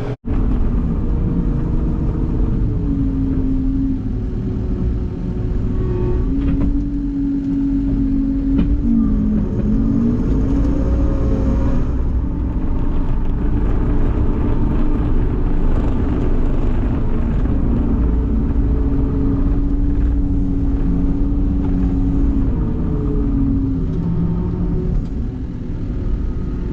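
Tractor engine running steadily under load, its pitch dipping briefly about nine seconds in and shifting again near the end.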